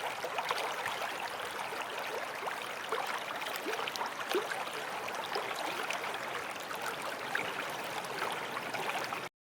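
Water trickling and gurgling steadily, with small bubbling pops and clicks. It cuts off suddenly near the end.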